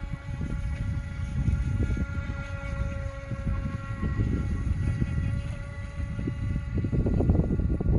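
Radio-controlled speedboat's electric motor whining steadily out on the water, fading away about six seconds in. A loud low rumble of wind on the microphone grows toward the end.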